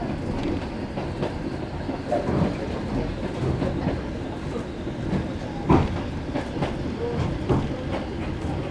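Steam-hauled passenger coach running along the track, heard from inside: a steady rumble of wheels on rails with irregular clacks over the rail joints, one louder clack a little past halfway.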